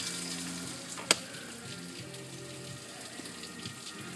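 Steady rain falling with a hiss, with low held notes of music underneath and one sharp click about a second in.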